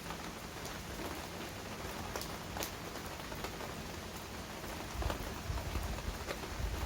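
Heavy rain falling steadily, with scattered sharp ticks of individual drops. About five seconds in, a low, uneven rumble joins it.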